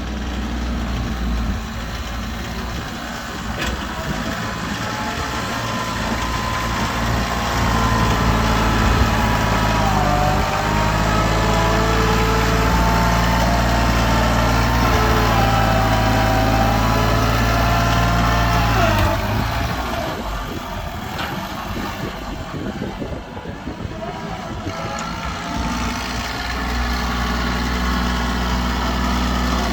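Tractor engine running, louder and working harder from about seven seconds in, with a wavering higher whine over it. It drops back to a lower, steadier running note a little past the halfway point.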